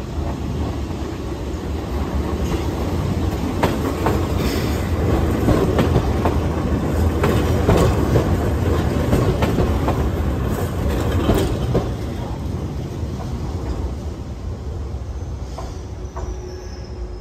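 A Keihan 600-series electric train running slowly past close by, its wheels clicking repeatedly over rail joints and points under a steady rumble. It grows louder as it approaches, is loudest as it passes about halfway through, then fades as it pulls away.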